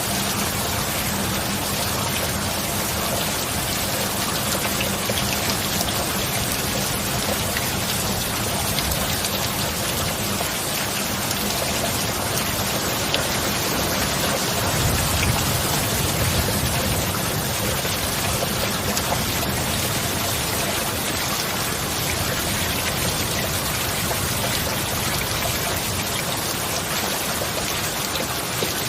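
Steady heavy rain falling, a dense even hiss of drops, over a faint steady low tone. A low rumble of thunder swells briefly about halfway through.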